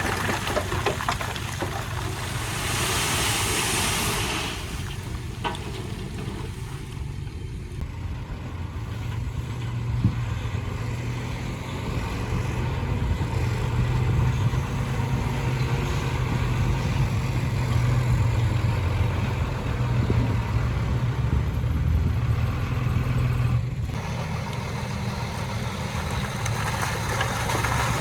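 Heavy diesel engine of earthmoving machinery running steadily with a low hum, working a little harder in the middle stretch. A brief hiss comes about two to four seconds in.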